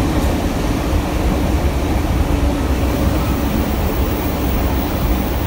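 Steady, loud rushing noise and low rumble of a passenger train running at speed, heard from aboard.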